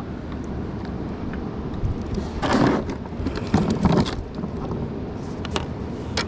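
Wind buffeting the microphone, a steady low rumble, with a few short noisy bursts about two and a half, four and five and a half seconds in.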